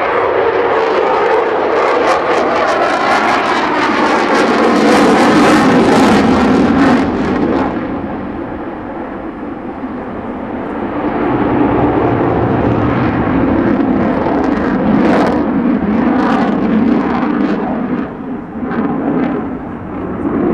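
Eurofighter Typhoon's twin Eurojet EJ200 turbofans, loud jet noise from a slow, gear-down pass, its pitch shifting in the first seven seconds. The noise fades somewhat about eight seconds in, then swells again.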